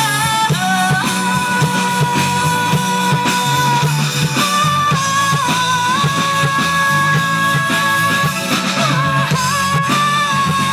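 Rock band playing a song, with long held melody notes sliding between pitches over guitars and a steady drum beat.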